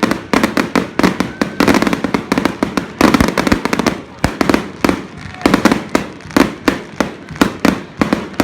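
Fireworks display: a rapid barrage of loud bangs and crackling reports, several a second, thinning briefly about halfway through before picking up again.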